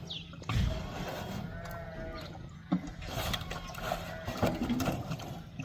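A sheep bleating once, a wavering call, with a low thud just before it and a sharp knock after it.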